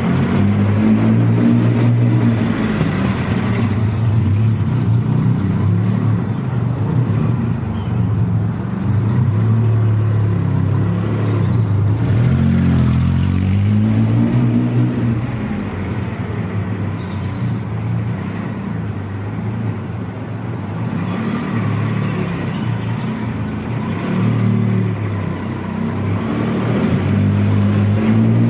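1981 Yamaha XS750E's three-cylinder engine running, its pitch rising and falling several times as the revs go up and come back down.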